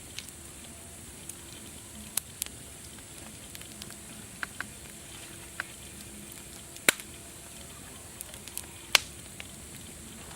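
Campfire crackling: irregular sharp pops and snaps of burning wood over a steady high hiss, with two louder snaps in the second half.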